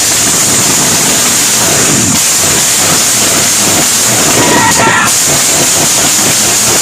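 Small-block Chevy V8 running loud and rough, with a strong steady hiss over the exhaust rumble.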